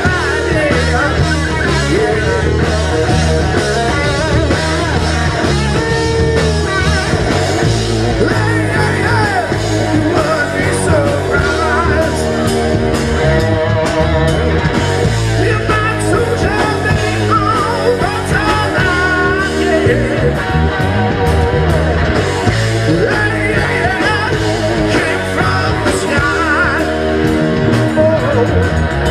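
Rock band playing live: a loud, continuous rock number with a steady beat.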